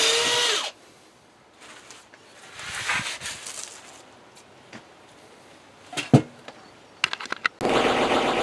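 A handheld electric power tool runs with a steady whine and shuts off just under a second in. After a few knocks and clicks it starts again near the end and runs steadily.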